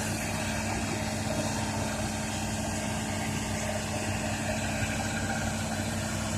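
Isuzu 6BG1 six-cylinder diesel engine of a Hitachi ZAXIS200-5G excavator running steadily at an even speed, with no revving.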